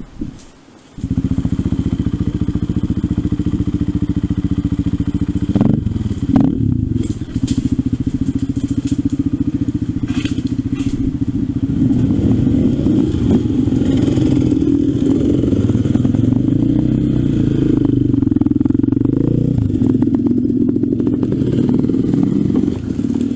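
Trail motorcycle engine coming in abruptly about a second in, running steadily at first, then with its pitch rising and falling as the bike is ridden along a rough green lane, with a few knocks about six seconds in.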